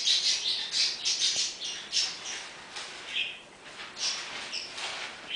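A bird giving rapid, high-pitched chirps and squawks. The calls are densest in the first two seconds and come more sparsely after that.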